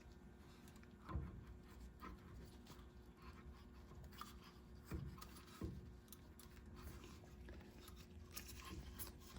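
Near silence with a few faint knocks and clicks, about three in all, from a rear brake caliper being handled and fitted back over new brake pads.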